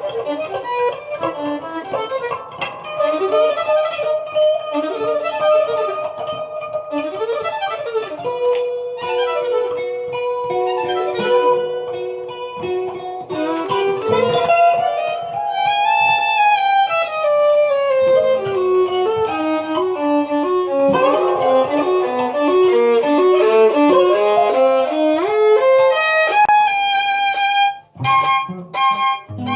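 Violin and acoustic guitar improvising freely together, with no set tune. In the middle the violin slides up and back down; then quick runs of notes step down and climb back up, before a short break near the end.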